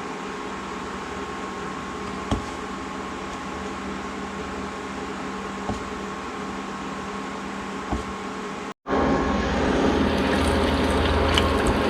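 Steady hum with a few light clicks while the oil heats. After a sudden cut near the end, louder hot oil bubbling and crackling as battered chicken tenders deep-fry.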